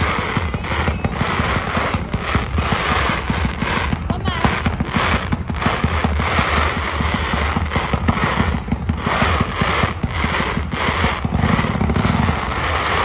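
Fireworks going off in a rapid, near-continuous barrage of bangs and crackles.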